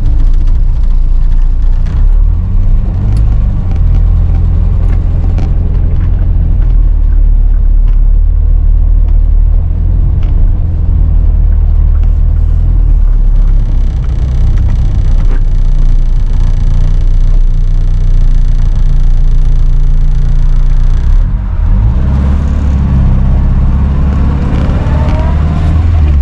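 Car on the move, its engine and road rumble heard from inside the cabin as a loud, steady low drone.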